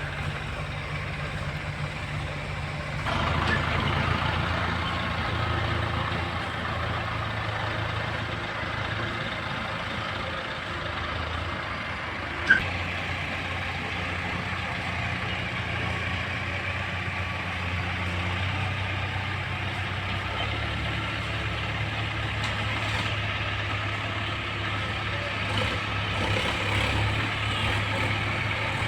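Heavy diesel engine running steadily, picking up and growing louder about three seconds in, then settling to a steady run. A single short sharp sound near the middle.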